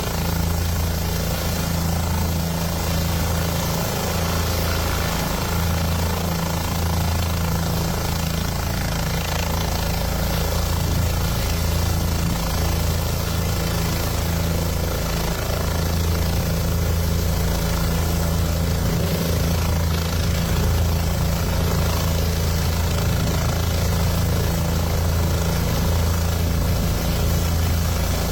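Steady low mechanical drone of an engine or rotor, unchanging throughout, with a rushing noise over it.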